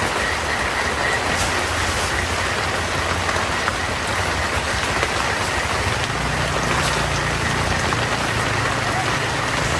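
Steady rain falling, an even hiss with no single drops standing out, over a low steady rumble that grows a little stronger about six seconds in.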